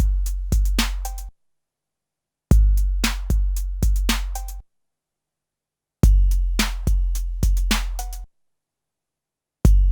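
SP-1200 12-bit drum sampler playing a short drum phrase with a long, deep bass kick and a few sharp hits over it. The phrase comes in bursts of about two seconds, three times, with silent gaps between.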